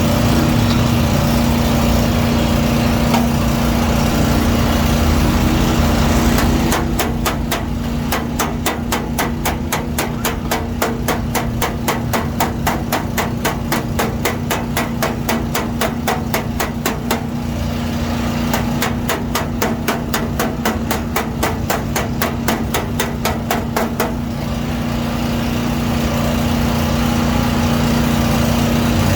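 Panel-beating hammer tapping out dents in a car's sheet-metal body panel: quick, even strikes, about four a second, in two long runs with a short pause between them. A steady machine hum runs underneath.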